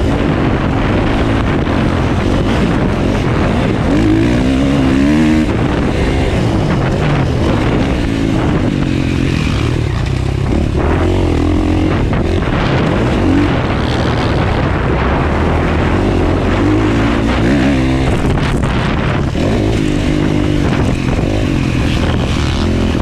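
Motocross dirt bike engine revving hard, its pitch rising and dropping again and again as the throttle is worked through gear changes around the track.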